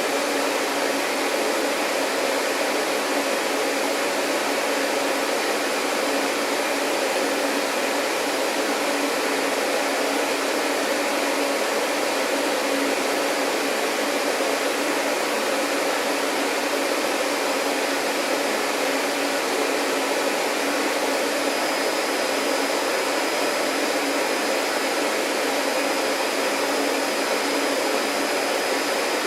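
Vacuum cleaner running continuously, a steady rushing of air with a low hum under it. A faint high whistle joins about two-thirds of the way in.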